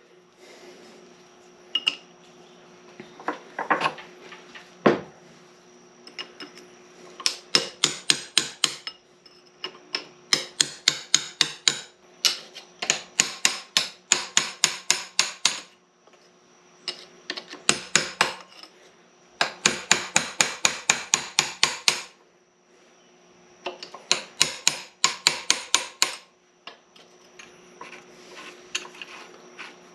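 Hammer tapping a punch against the steel lock washer and lock nut on an SM465 transmission shaft, sharp metal-on-metal strikes in quick runs of about six a second with short pauses between them. The mechanic is working the bent-down locking tabs free so the nut can be spun off.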